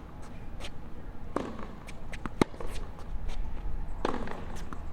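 Tennis rally: a ball struck back and forth by rackets and bouncing on the court, heard as sharp pops about every second, with players' shoes moving between shots.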